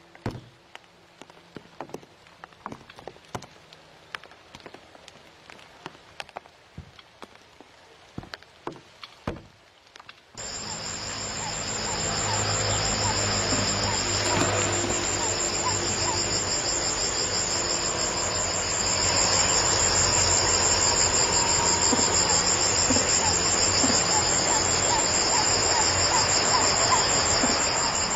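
Faint scattered clicks and ticks, then an abrupt switch about ten seconds in to a loud, steady chorus of insects: a pulsing high trill with faint short chirps underneath.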